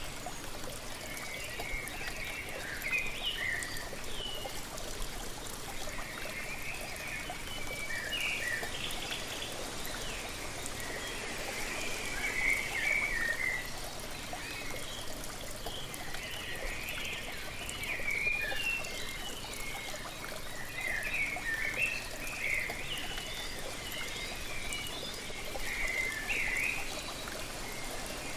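A waterfall splashing steadily, with small birds chirping in short twittering phrases over it.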